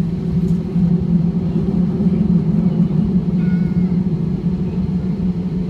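Airliner's jet engines running steadily at idle, heard from inside the cabin as an unbroken low drone, with faint voices in the background.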